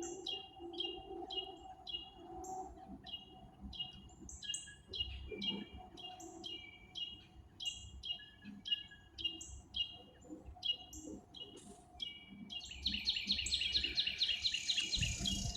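Songbirds chirping: a steady run of short, high chirps, two or three a second. They give way to a fast, dense trill for the last few seconds.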